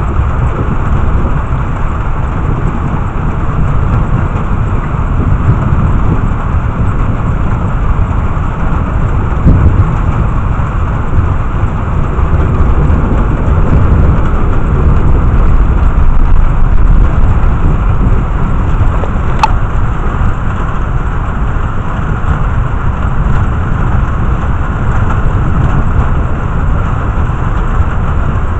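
Steady heavy rain with a low rumble of thunder that swells past the middle, and a single sharp click about two-thirds of the way through.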